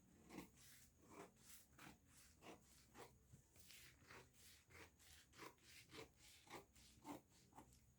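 Faint paper-handling sounds from pattern paper being worked on a table: a series of short scraping, rubbing strokes, roughly two a second, with a longer rustle about four seconds in.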